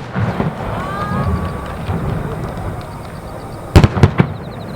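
Fireworks shells bursting. A bang at the start is followed by a low rumble, then a quick cluster of three or four sharp bangs comes near the end.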